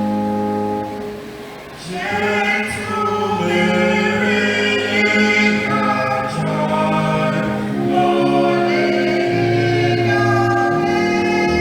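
A church choir singing a gospel or Christmas piece in parts over sustained organ chords. The organ holds a chord alone at first, and the voices come in about two seconds in.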